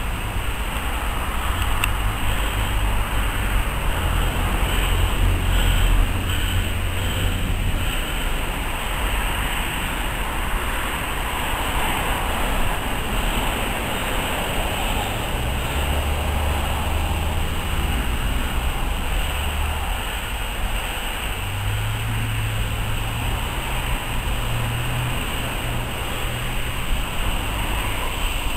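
Steady low rumble and hiss of a train of coaches moving slowly along the heritage line, the rumble swelling and easing every few seconds.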